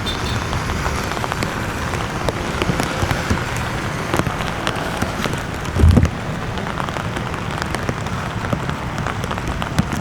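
Steady rain falling, with many separate drops hitting close by, and a brief low thump about six seconds in.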